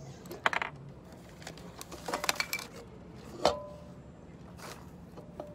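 A few short metallic clinks and jingles: one about half a second in, a quick cluster around two seconds, and a sharper clink with a brief ringing note about three and a half seconds in.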